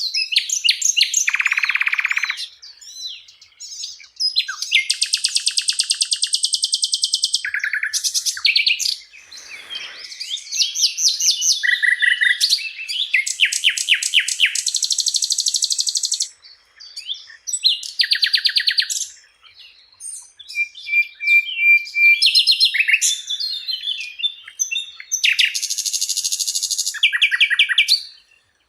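Sikatan londo (an Indonesian flycatcher) singing a varied series of high chirps, fast trills and buzzy rattles, in phrases a second or two long with short gaps between them.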